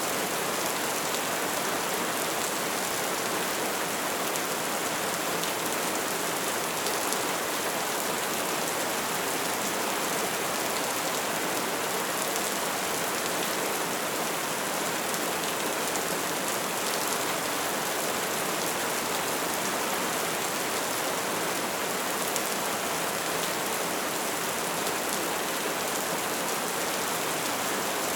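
Bonfire burning, with a steady dense crackle and hiss and faint scattered pops.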